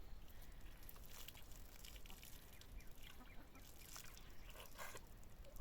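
Faint, scattered calls of domestic fowl over a steady low rumble.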